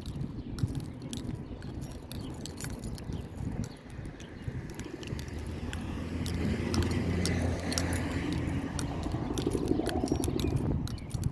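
A motor vehicle's engine running steadily close by from about four seconds in, cutting off near the end, with scattered small clicks and rattles throughout.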